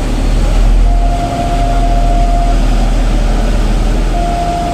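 Passenger ferry's engine running with a loud, steady low rumble. A thin steady tone comes in about a second in, drops out, and returns near the end.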